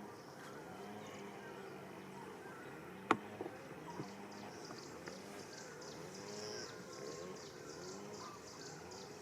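A run of short animal calls that rise and fall in pitch, repeating about once a second. High bird chirps join from about halfway through, and a sharp click sounds about three seconds in.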